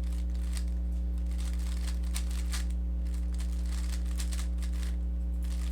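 Faint clicking and rattling of a Rubik's cube's layers being turned in quick finger-trick algorithms, over a steady low electrical hum.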